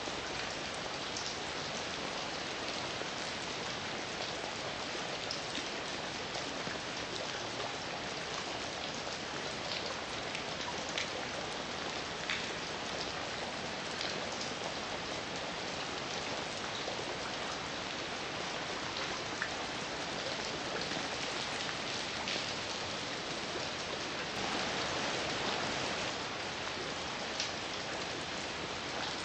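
Steady heavy rain, with individual drops ticking sharply here and there. The rain swells louder for a couple of seconds about 24 seconds in.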